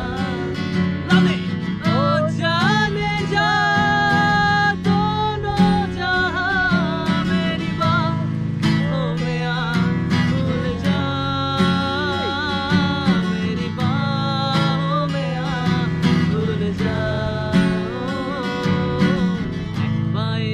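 Music: an acoustic guitar strummed steadily, with a sliding, wavering melody line over it.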